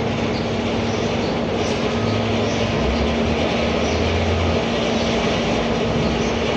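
Steady, loud machinery noise with a constant low hum and no change in pitch.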